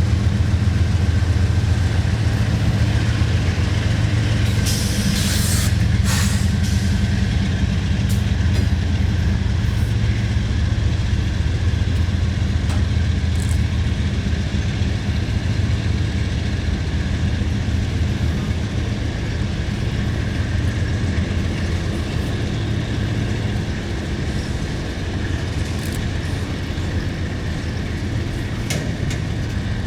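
Freight train rolling past: a steady low rumble from the diesel locomotives and rail cars, with a few sharp clicks from the cars. The rumble eases slightly toward the end.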